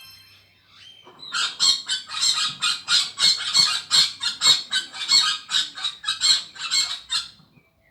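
A bird squawking harshly over and over, about three to four calls a second, starting about a second in and stopping shortly before the end.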